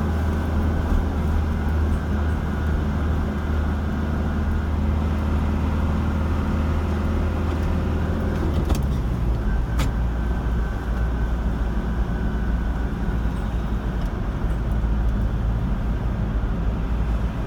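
Car engine and tyre noise while driving, a steady low hum. The engine note drops a little about eight or nine seconds in, with two short clicks around then.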